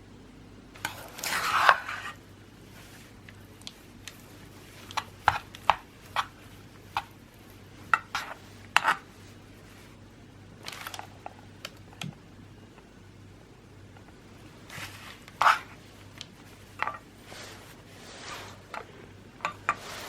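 Handling noise: scattered light clicks and taps, with a longer rustling scrape about a second in and another short one about three quarters of the way through.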